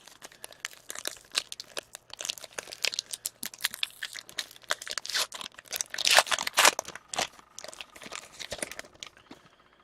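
Crinkling and tearing of a foil trading-card pack wrapper being ripped open and handled: a dense run of irregular crackles, loudest about two-thirds of the way through.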